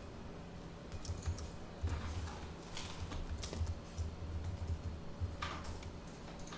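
Typing on a computer keyboard, irregular keystrokes with short pauses between runs.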